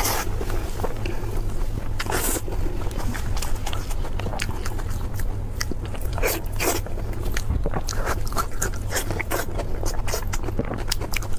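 Close-miked eating: bites and chewing with many irregular sharp crackles and clicks, over a steady low hum.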